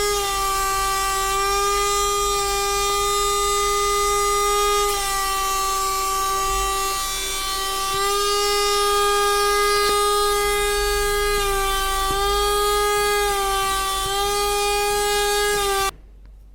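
Cordless handheld car vacuum cleaner running with a steady high-pitched motor whine, its pitch sagging briefly a couple of times, then switched off abruptly near the end.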